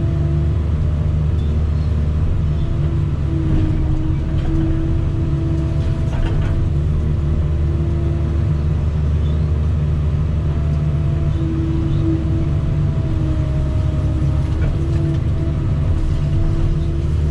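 Diesel engine of a piece of earthmoving equipment running steadily under work, a constant low drone with a steady whine above it that wavers slightly in pitch.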